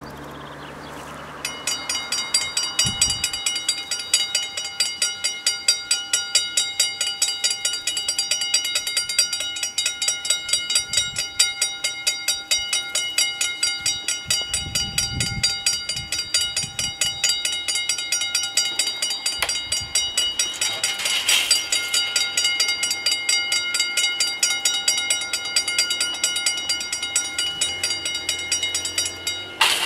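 Dutch level-crossing warning bells ringing in a fast, even string of strikes as the crossing closes. They start about a second and a half in and stop just before the end.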